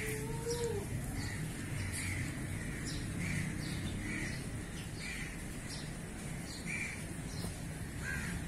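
Birds calling in short, repeated notes, roughly one every half second to a second, over a steady low rumble.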